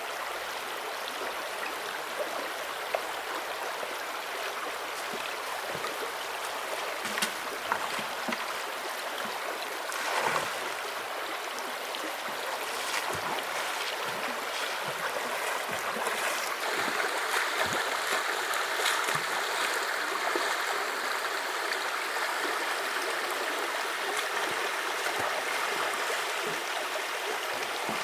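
Steady rush of flowing river water with a few small knocks and splashes, growing a little louder a bit past halfway.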